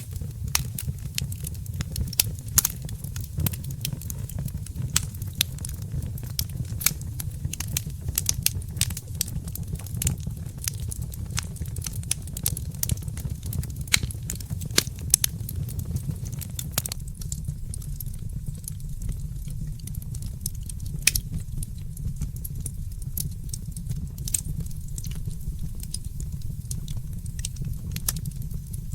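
Wood fire in a fireplace crackling and popping over a steady low rumble. The pops come thick and fast, then thin out to scattered ones a little past the middle.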